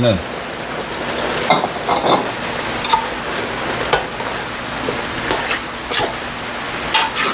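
Eggplant, green chilies and meat frying in a metal pot, sizzling steadily, while a metal spatula stirs them and scrapes and clinks against the pot several times.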